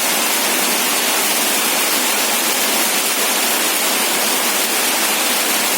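Heavy rain falling steadily, a constant loud hiss.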